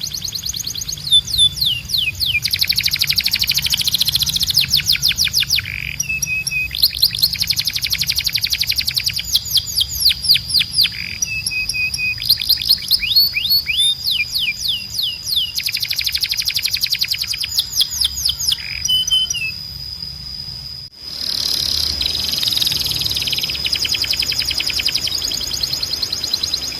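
Canary singing: long trills of rapidly repeated high, sweeping notes, phrase after phrase, over a steady high whistled tone. The song briefly breaks off about 21 seconds in, then resumes.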